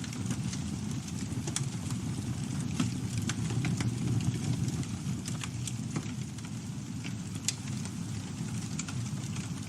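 Campfire burning, with a steady low rumble of flame and frequent sharp crackles and pops from the burning wood. One louder pop comes about three seconds in and another near the end.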